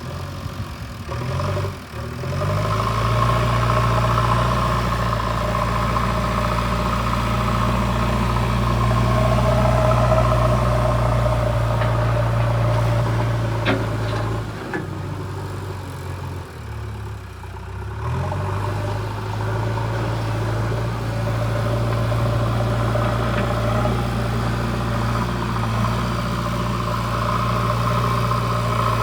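JCB 3DX backhoe loader's diesel engine working under load while dozing. Its note climbs near the start, drops back for a few seconds past the middle, then climbs and holds again. A short clank comes a little before the middle.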